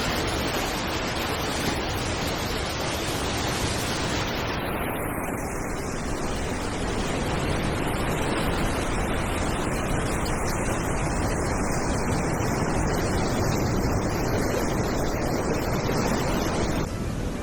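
Floodwater rushing through a swollen river, a steady, even sound of running water.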